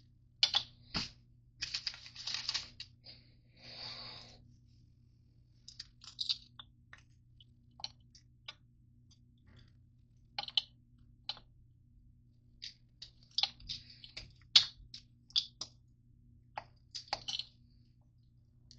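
Crunchy granola bars being broken up and handled: irregular sharp cracks, clicks and crunches, with a short rustling stretch about four seconds in.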